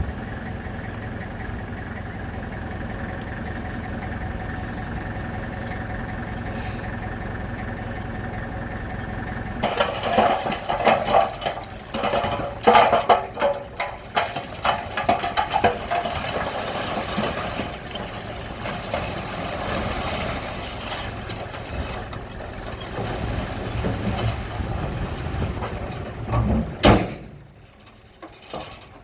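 Heavy diesel earthmoving machine running steadily for about ten seconds, then louder working sound with many clanks and knocks, ending in a sharp knock, after which it goes quieter.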